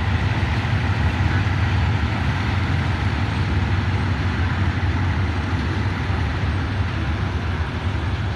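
Diesel passenger train rolling slowly out of the station: a steady low rumble that eases slightly toward the end.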